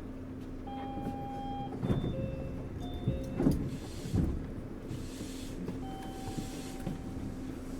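Interior running sound of a Kobe New Transit 3000 series automated rubber-tyred train: a steady hum with electric motor tones that step in pitch, and several knocks between about two and four and a half seconds in.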